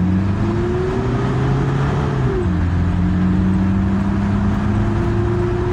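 Mitsubishi Pajero Dakar diesel engine accelerating hard from a standstill. Its pitch climbs for about two seconds, drops abruptly with a gear change, then climbs again in the next gear.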